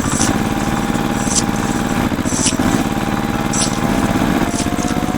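Small engine running steadily at an even speed. Short high-pitched chirps come about once a second over it.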